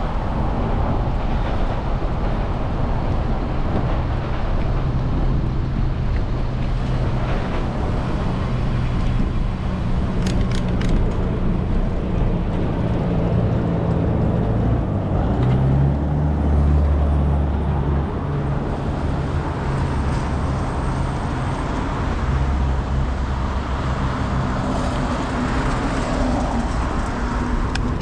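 Road traffic heard from a bicycle: motor vehicle engines give a steady low hum, and road noise runs underneath. A few brief clicks come about ten seconds in.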